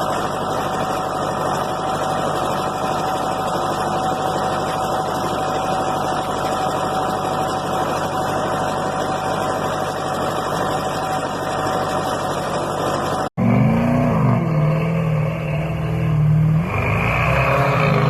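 An old truck's engine running steadily. After a sudden break about 13 seconds in, another truck engine revs up and down several times.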